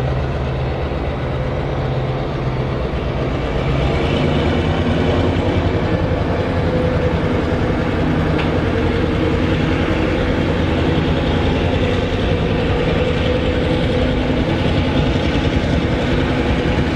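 Vintage wooden passenger carriages rolling slowly past on the rails, a steady rumble of wheels and running gear.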